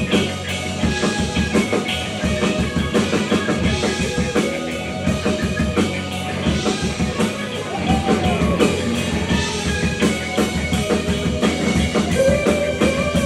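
Live rock band playing an instrumental passage: a drum kit keeping a steady beat under guitar, with bending guitar notes about eight seconds in and again near the end.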